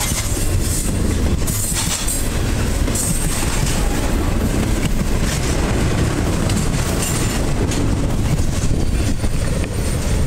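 Double-stack container train's well cars rolling past close by: a steady heavy rumble of steel wheels on rail with irregular clicks and clatter from the wheelsets.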